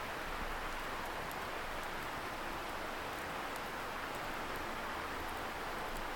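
Steady rushing hiss of a distant river, with faint, scattered crackles from a wood campfire.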